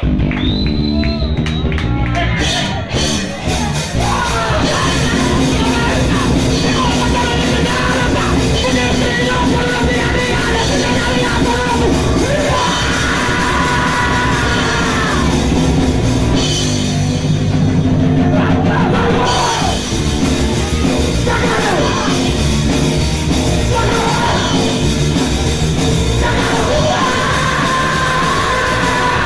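Hardcore punk band playing live at full volume: electric guitars, bass and drum kit, with a shouted lead vocal.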